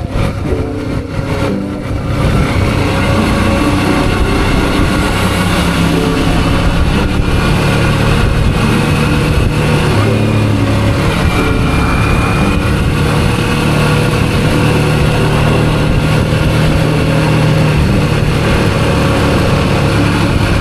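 Suzuki V-Strom 650 V-twin engine running on the move, its pitch shifting up and down as the revs change, under a steady noisy rush. It is a little quieter and uneven for the first two seconds, then steady.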